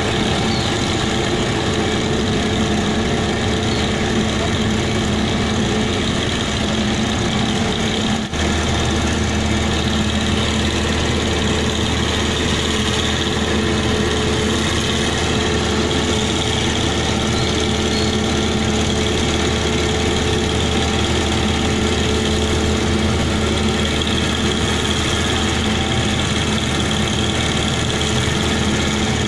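Heavy engine running steadily at idle. About eight seconds in there is a brief dip, after which a deeper low hum joins and carries on.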